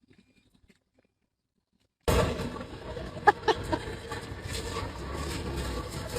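About two seconds of near silence, then a steady noisy outdoor background with a single sharp bang about a second later, followed by a couple of smaller knocks.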